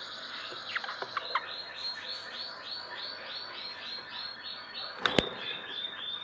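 Nestling chicks calling in the nest: a long run of repeated high chirps, about three a second, that run quicker near the end. Two sharp knocks come about five seconds in.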